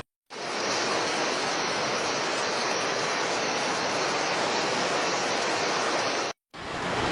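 Steady rushing noise with no distinct events, dropping out briefly to silence about six seconds in before starting again.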